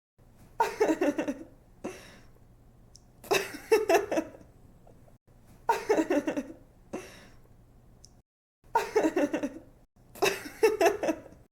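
A young woman laughing in five bursts of quick giggling pulses, roughly every two and a half seconds, with short breaths between them.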